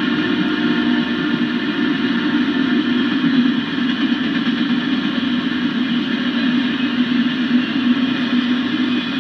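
Autorack freight cars of a long train rolling steadily past, a loud, even running noise with some held higher tones over it and no strong rhythm.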